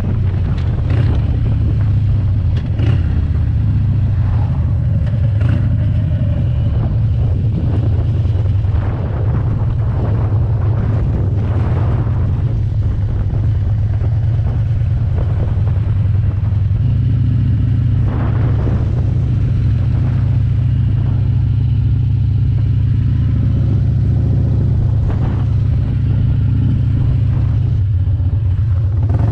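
Harley-Davidson Dyna Super Glide's V-twin engine running steadily with a deep, continuous rumble, its note changing a little over halfway through.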